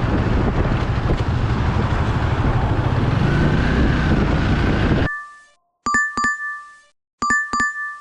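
Steady road-and-wind rumble of a motorcycle ride that cuts off abruptly about five seconds in. Then an electronic two-note chime sounds twice in quick succession, and again about a second and a half later.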